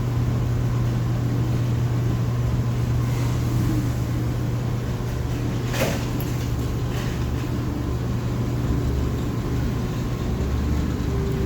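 A steady, low mechanical hum from running machinery or an idling engine, with one sharp click a little before the middle.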